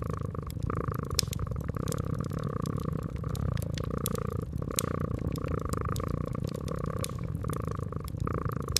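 Domestic cat purring steadily, its purr swelling and easing with each breath. Wood fire crackling, with many small pops scattered throughout.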